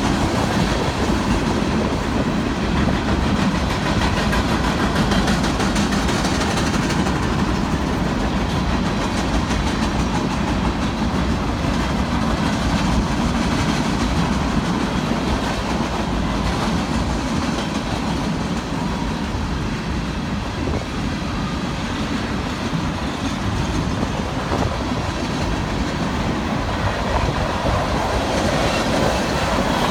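A train's cars rolling steadily past on the track, the wheels clattering over the rails.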